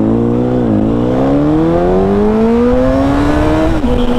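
2004 Honda CBR1000RR's inline-four engine accelerating hard from a standing start. Its pitch dips briefly about half a second in, then climbs steadily for about three seconds under full throttle, and drops suddenly near the end.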